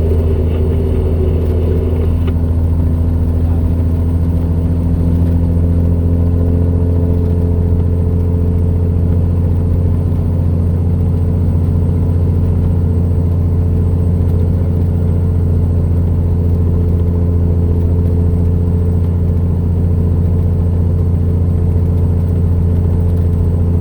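Heavy truck's diesel engine running steadily under load, pulling a trailer up a steep grade: a loud, even drone with a deep hum.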